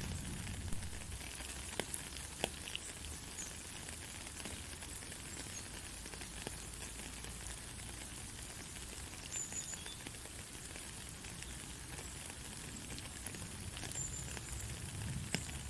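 Steady rain falling, a continuous hiss with scattered sharper drop impacts, most of them in the first few seconds and one near the end.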